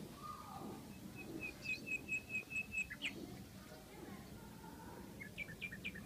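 Small songbird chirping: a quick, even run of about eight short high notes, then a shorter burst of rapid notes near the end.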